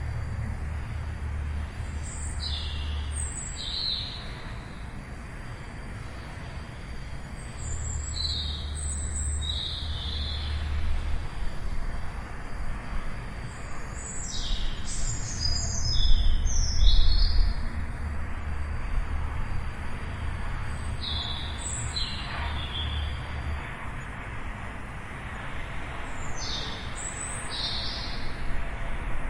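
Small birds chirping in short clusters of high calls every few seconds, over a steady low rumble.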